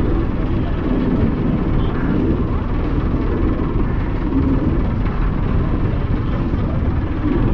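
Ferry Thomas Rennie's engines running steadily under way, heard on board as a deep, even drone.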